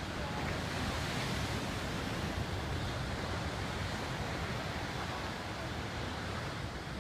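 Steady rush of sea waves and wind at a harbour, with wind rumbling on the microphone.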